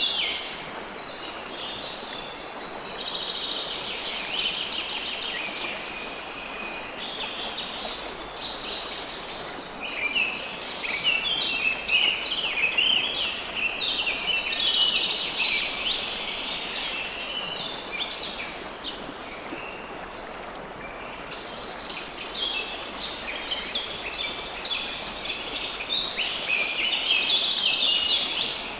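River water flowing steadily, with many small birds chirping and twittering over it. The birdsong grows busier in two stretches, about a third of the way in and again near the end.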